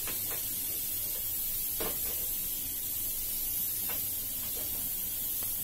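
Very hot ghee in a metal kadhai on a gas burner, hissing steadily, with a few faint knocks as the kadhai is handled. The ghee has been heated until it is near the boil.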